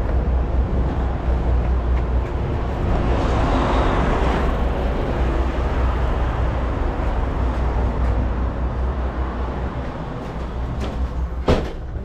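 Diesel semi-truck engines running in a steady low rumble, with a rushing swell about three to four seconds in and a sharp knock near the end.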